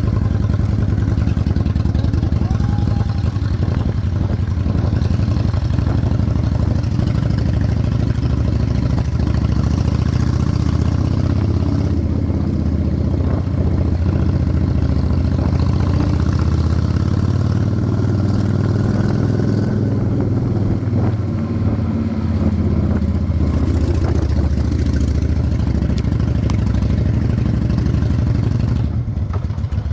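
Honda Shadow 600 V-twin engine running under way on a rigid chopper, a dense low exhaust pulse that dips briefly about two-thirds of the way through.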